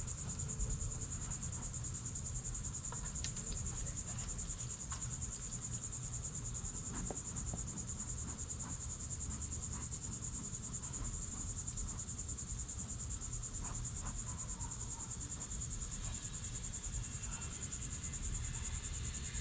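A steady, high-pitched insect chorus of crickets or cicadas trilling without a break, over a low rumble.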